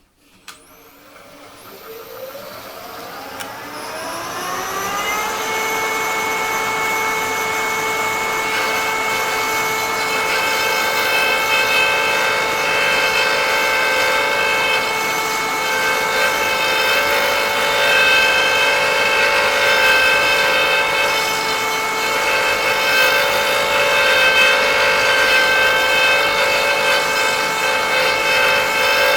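Electric motor of a woodworking power tool spinning up with a rising whine over about five seconds, then running at a steady speed with an even, high-pitched hum.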